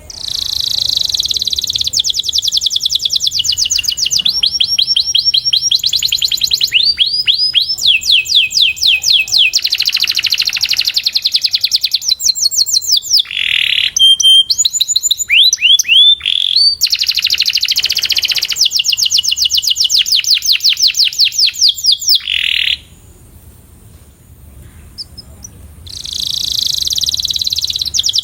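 Domestic canary singing a long song of fast trills: runs of rapid repeated whistled notes that change speed and pitch every second or two. The song breaks off for about three seconds near the end, then starts again.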